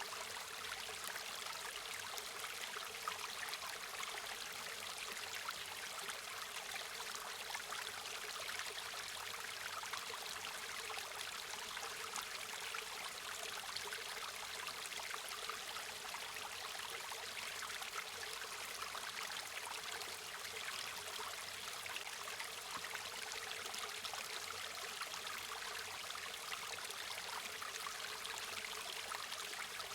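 A stream or small river flowing and burbling over stones, a steady rushing with fine splashing detail, high and light with little low rumble.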